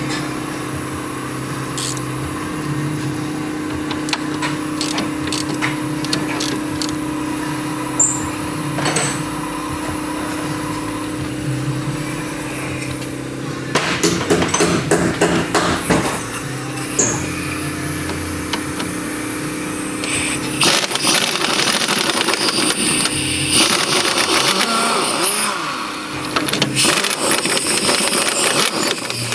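Hand tools working the strut's lower mounting bolts: metal clinks and quick runs of ratchet clicking, over a steady hum that stops about 20 seconds in. After that comes a denser stretch of rattling tool noise.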